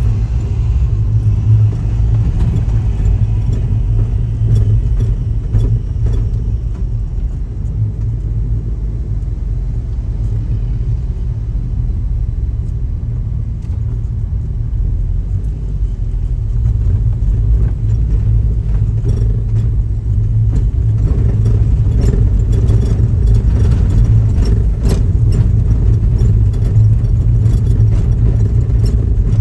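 Helicopter in flight: a steady, loud, low rumble of rotor and engine that grows a little louder about two-thirds of the way through.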